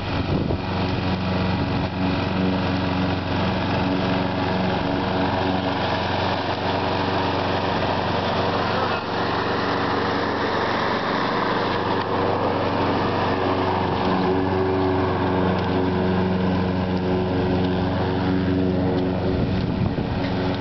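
Petrol lawn mower engine running steadily, its pitch shifting slightly partway through.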